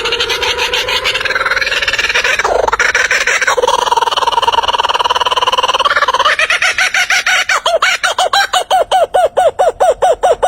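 A bird calling: a long drawn-out pitched call for about six seconds, then a fast run of short repeated notes, about five a second.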